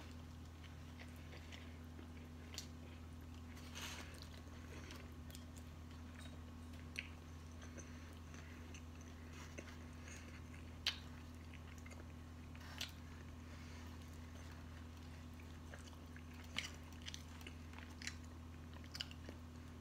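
A person chewing and biting into a sandwich, heard faintly as scattered short mouth smacks and clicks every second or two over a steady low hum.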